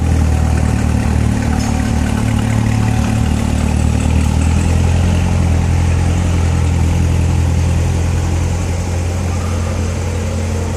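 Corvette ZR1's supercharged 6.2-litre V8 idling steadily, heard loud from the exhaust side; its low note thins slightly about four and a half seconds in.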